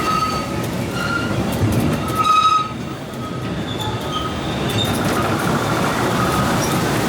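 Disneyland Railroad steam train rolling along the track with a steady rumble. Its wheels give short, high-pitched squeals against the rails, loudest about two seconds in, then a fainter wavering squeal near the end.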